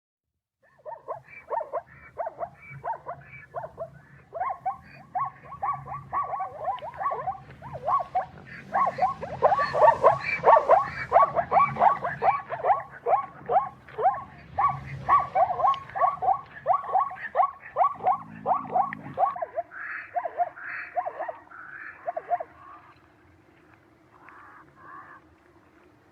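Zebra calling: a long run of rapid, barking yelps, several a second, that grows louder through the middle and fades near the end.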